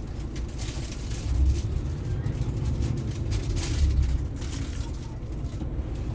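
Low engine rumble of a bus boarding a ferry, swelling twice as it drives up.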